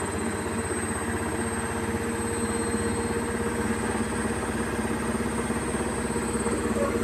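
Beko WKY71233LSYB2 washing machine on its spin cycle: the drum spinning steadily at speed, a continuous motor hum with a thin high whine over it.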